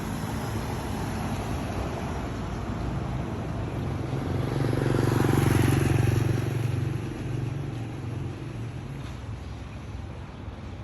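A motor vehicle's engine running, growing louder to a peak about five to six seconds in and then fading away, as when a vehicle drives past.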